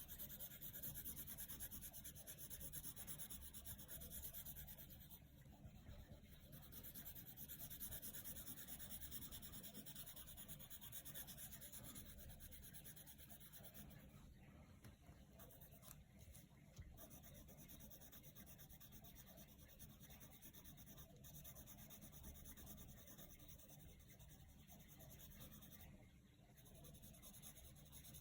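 Coloured pencil shading on paper: a faint, steady scratching of quick back-and-forth strokes, with a few short pauses.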